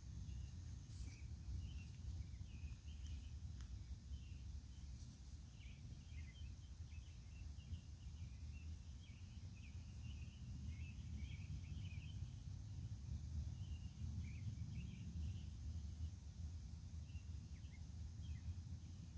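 Steady low rumble with small birds chirping irregularly throughout, short high chirps coming thick in the middle and thinning out near the end.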